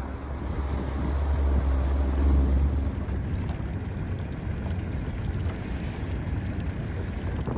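Wind buffeting the microphone outdoors: a low rumble that eases about three seconds in, over a steady rushing noise.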